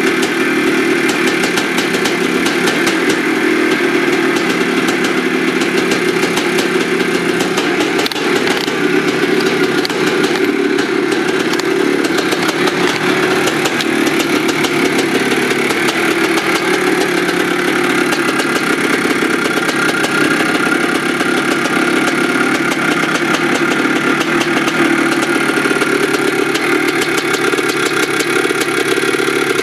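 1982 Maico 490 two-stroke single-cylinder dirt bike engine running steadily at a fast idle, with a rapid crackle of firing pulses.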